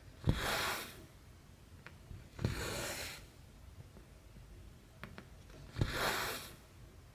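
Embroidery thread drawn through stamped cross-stitch fabric: three rasping pulls, each starting with a soft tap and lasting about half a second, spaced two to three seconds apart.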